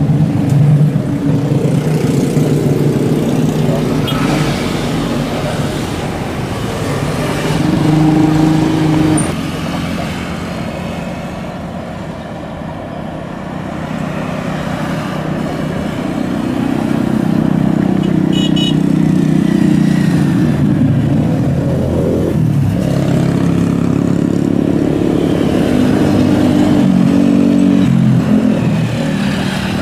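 Road traffic, cars and motorcycles, passing close by. Their engine notes swell and fade, with a dip in level about a third of the way through.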